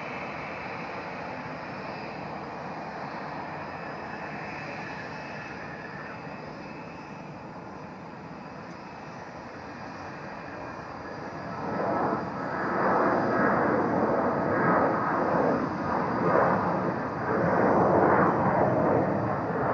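Jet airliner engines: a steady distant rush that grows much louder about twelve seconds in and turns uneven and crackling as the aircraft comes close.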